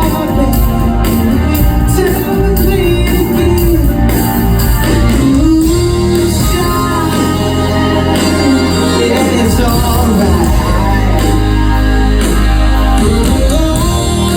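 Live amplified band music: a full band with bass and drums under a lead vocal melody line.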